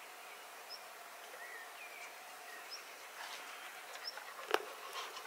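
Birds calling: a small high chirp repeated every second or two and a brief warbled call about two seconds in, over a steady background hiss. A single sharp click comes near the end.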